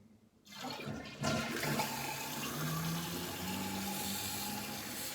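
Toilet flushing: water rushing from the tank into the bowl. It starts about half a second in, turns loud a second in, and keeps going steadily.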